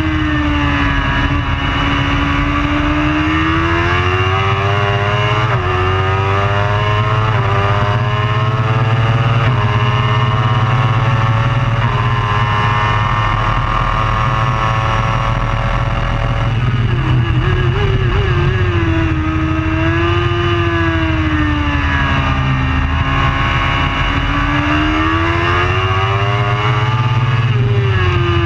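Superbike engine at racing speed, climbing through several quick upshifts, holding high revs on a straight, then dropping sharply with downshifts about two-thirds of the way in before rising and falling again through the corners.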